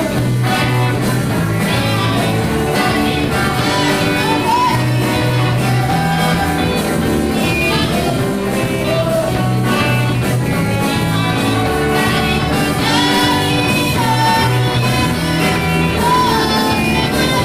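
A band's song played live: a singer's voice carries the melody over a steady bass line and accompanying instruments.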